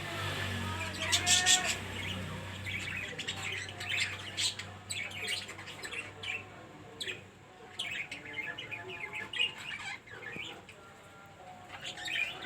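A colony of budgerigars chirping and chattering, with many short, overlapping high calls all through.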